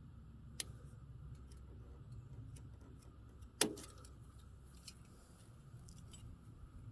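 Small clicks and ticks of hand tools at work on a rubber fuel line, with a sharp click early on and one louder snap a little past halfway, over a low steady hum.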